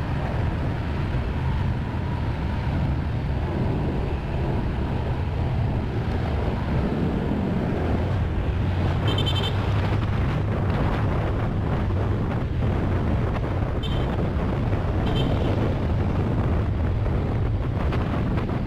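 Honda Click scooter on the road, its engine running under a steady low rumble of wind on the microphone. A few short high-pitched beeps sound around the middle.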